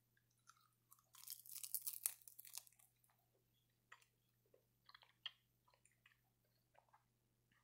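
A crisp seaweed snack being bitten and chewed: a dense burst of crunching about a second in, then scattered softer crackles as it is chewed.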